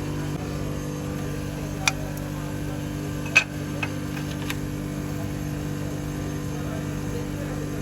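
Steady low machine hum, with a few sharp clicks about two, three and a half and four and a half seconds in.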